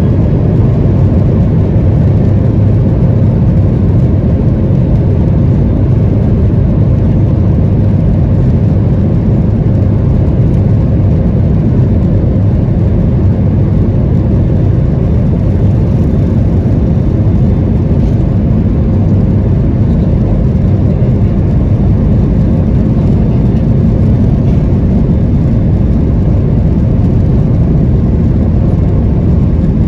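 Steady, even low roar of a Boeing 737-800's engines and airflow heard inside the passenger cabin, with a faint steady hum running under it.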